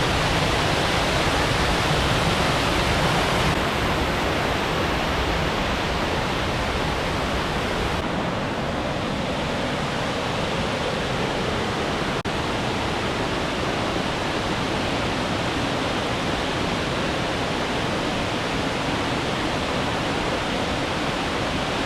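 Mountain waterfall pouring close by: a loud, steady rush of falling water with no letup, its hiss easing slightly a few seconds in.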